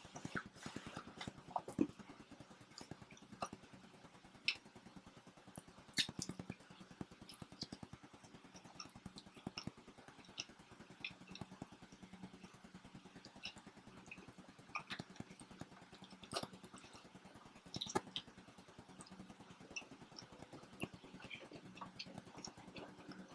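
Chewing and mouth sounds of people eating homemade pizza: scattered soft clicks and smacks throughout, over a faint steady low hum.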